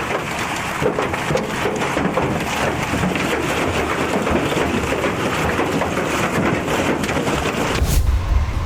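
Heavy hail pelting down, a dense clatter of many small impacts. A little before the end it breaks off into a deep low rumble.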